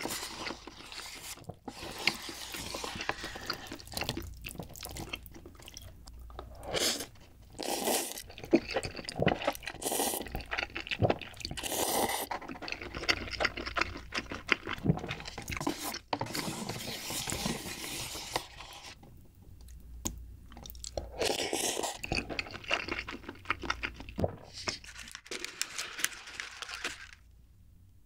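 Close-miked chewing of Carbonara Buldak instant stir-fried noodles, with wet mouth sounds and scattered clicks, dropping to quiet near the end.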